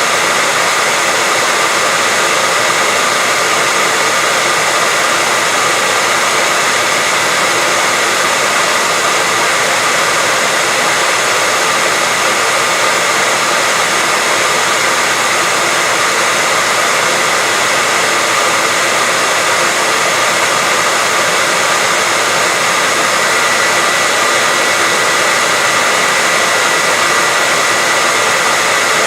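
Steady white noise: a continuous, even hiss that never changes in level, strongest in the upper range.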